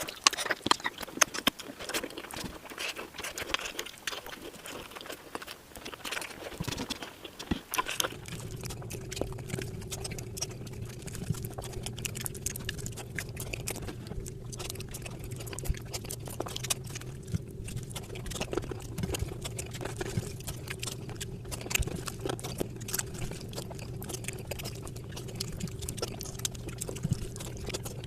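Close-up wet eating sounds: fish curry and rice being mixed and chewed, many small moist clicks and smacks. About eight seconds in, a steady low hum starts underneath and carries on.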